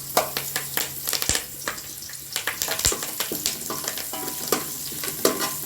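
Curry leaves frying in hot oil, crackling and sizzling with many irregular pops, while a spatula stirs them in the pan.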